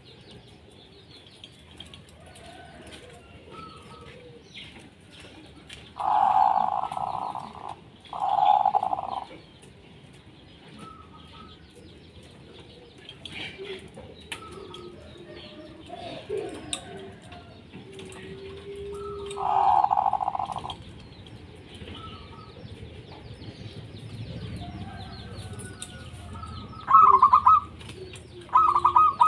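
Zebra doves (perkutut) giving their staccato cooing song in a few loud bursts of about a second each, with quick trilled notes near the end. Small birds chirp faintly throughout.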